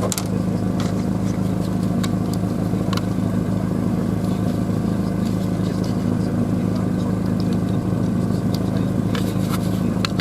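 A steady engine and road drone from an OBS Ford F-150 pickup being driven, heard inside the cab, with a few light clicks.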